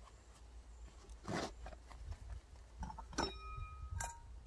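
Metal camping gear being handled: a rustle, then two sharp metallic clinks, each ringing briefly, near the end.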